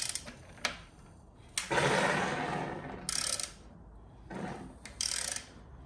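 Norton Commando parallel-twin engine being turned over by hand with its spark plugs out, in a series of short mechanical strokes with one longer stroke about two seconds in. The engine turns freely and is not seized.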